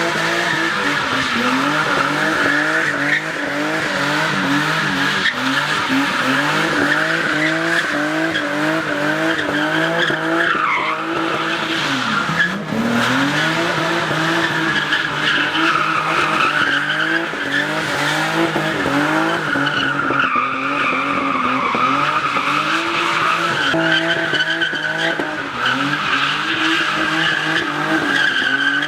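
Car engine revving hard, over and over, with tyres squealing.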